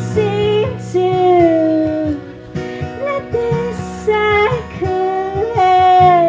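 Live acoustic performance: a woman singing held, sliding notes over a strummed acoustic guitar.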